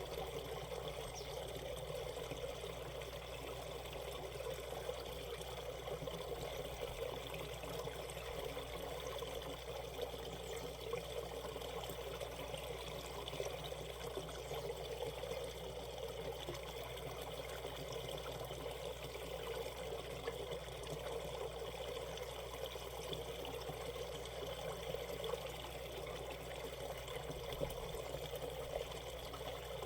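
Shallow valley stream flowing over rocks: a steady babble of water.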